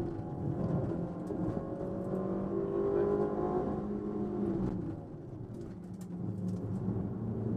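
Rally Ford Fiesta's engine under load, heard from inside the cabin, revs rising and falling as it drives through the stage. About five seconds in the revs drop and the sound gets quieter as it lifts off for a bend, then builds again near the end.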